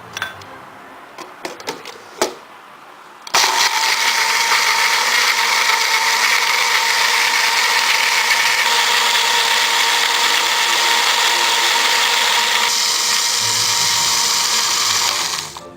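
A few light clicks and knocks, then a countertop blender switches on about three seconds in and runs steadily for about twelve seconds, blending frozen fruit and liquid into a smoothie. Its tone shifts partway through, and it stops shortly before the end.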